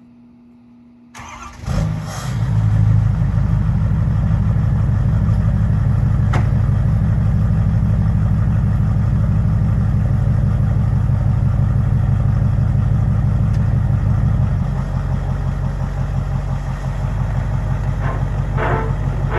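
Third-generation Cummins diesel pickup engine starting about a second in, then running steadily with a low rumble that eases a little later on.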